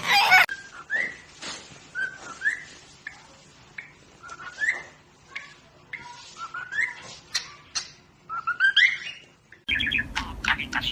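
A pet bird chirping and whistling: a string of short rising whistled notes, about one or two a second, with a quick run of notes near the end.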